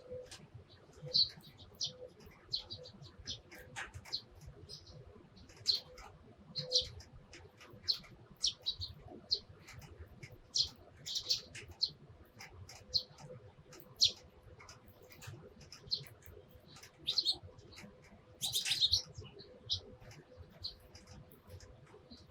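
Sparrows chirping: scattered short, high chirps throughout, with a brief burst of rapid chattering near the end.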